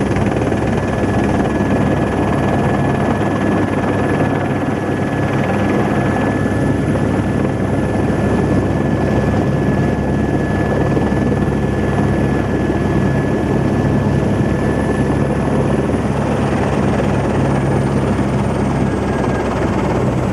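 Helicopter running: a steady loud rotor and engine noise with a thin high turbine whine. The whine sags a little lower near the end.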